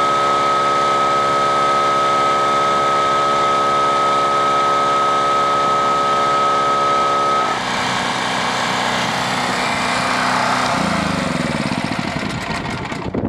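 Small gasoline engine of a gas-powered air compressor running steadily with a high, steady whine. About seven and a half seconds in the sound changes to a broader rushing hiss, and the engine's pitch sags near the end.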